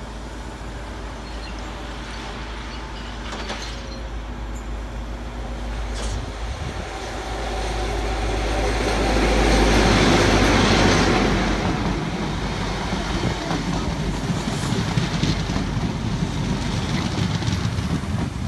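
InterCity 125 (HST) passing through the station. The sound of its Class 43 diesel power car grows to a loud peak about ten seconds in as the power car goes by. The Mark 3 coaches follow with a steady rumble and clickety-clack from the wheels on the rail joints.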